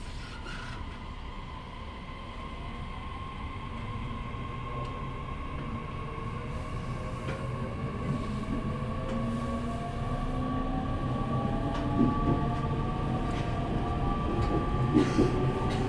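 E501 series electric train's traction motors and inverter whining as it accelerates from a stop, several tones climbing steadily in pitch over wheel-on-rail running noise that grows louder.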